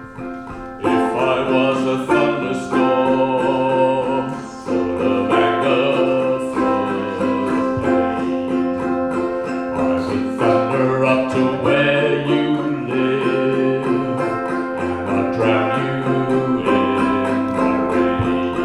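Acoustic folk band playing the song's opening: plucked string instruments over a steady held drone note, with a wavering melody line on top. The full band comes in about a second in.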